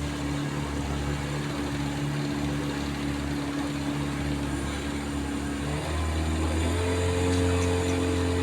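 Outboard motor on a canoe running steadily, then picking up speed about six seconds in, its hum rising in pitch and getting a little louder.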